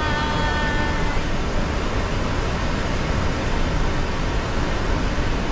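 Steady cockpit noise of a jet airliner taxiing, with engines and air systems running, and a short held tone in the first second.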